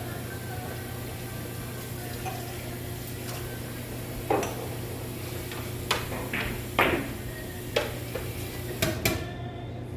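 Carom billiard balls clacking against each other and the cushions during a three-cushion shot: a run of about seven sharp clicks spread from about four seconds in to near the end, over a steady low hum.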